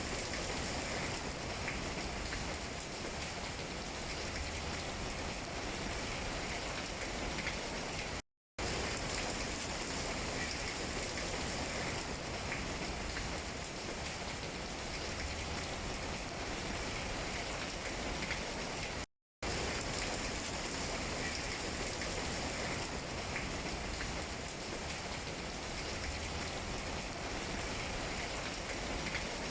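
Steady rain pattering on tree leaves, an even hiss flecked with drop ticks. It cuts to complete silence for a split second twice, about a third and two thirds of the way through, at the seams of the looped recording.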